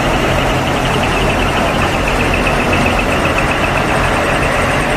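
Large diesel truck engines running steadily amid continuous vehicle noise, with a rapid pulsing high-pitched tone sounding over them throughout.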